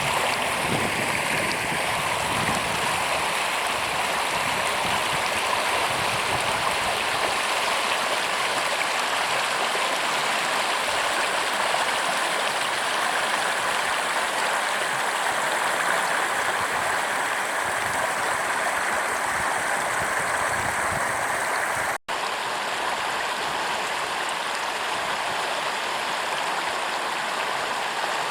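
A forest river running steadily over stones, an even rush of water, broken by a momentary gap about three-quarters of the way through.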